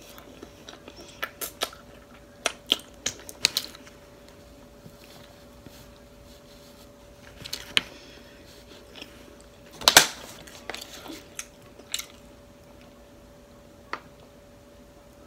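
Close-miked chewing of a chicken taco: a string of sharp wet mouth clicks and smacks, the loudest about ten seconds in.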